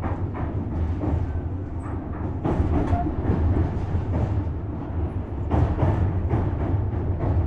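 Running sound inside a Tobu Series 6050 motor car: a steady low rumble from the running gear, with wheels clacking over rail joints, often in quick pairs.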